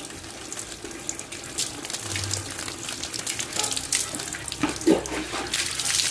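Water running and splashing during a dog's bath, with irregular splashes throughout.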